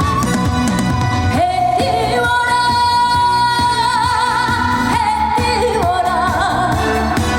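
A woman sings a Korean trot song over a pop band backing, holding long notes with a wide vibrato.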